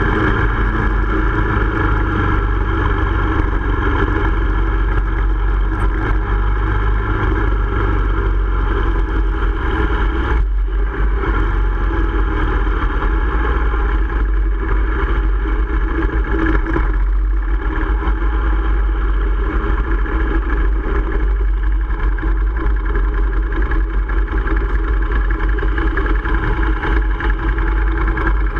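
Sport motorcycle engine running at low speed, heard from a camera mounted behind its fairing; the sound dips briefly twice, about ten and seventeen seconds in.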